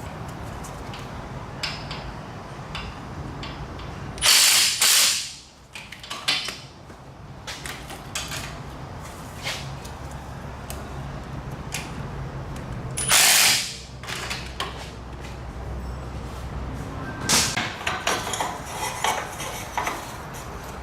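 Mechanic's tool work: two loud bursts of hissing noise, each about a second long, about nine seconds apart. Between them come scattered clicks and clinks of metal tools, with a busier run of clinking near the end.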